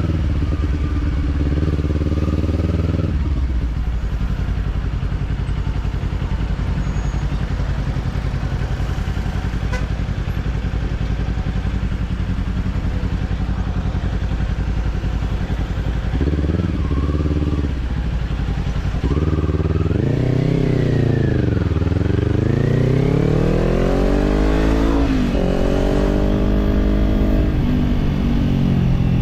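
Kawasaki parallel-twin naked bike with an aftermarket slip-on exhaust, heard on board while riding. It holds a steady note, then settles into a low rumble for a long stretch. In the second half it revs up and down through the gears, the pitch dipping and climbing several times before it levels off near the end.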